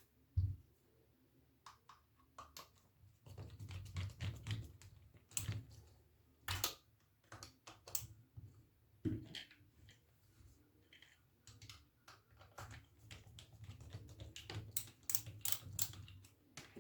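Irregular small clicks and taps of hand tools and parts as the cable terminals are screwed down onto the filter capacitors, with low rumbling handling noise between them.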